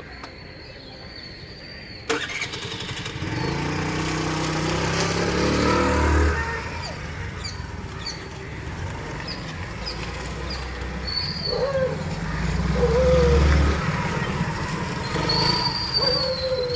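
Hero Maestro Edge scooter engine starting with a click about two seconds in, then running and revving up twice.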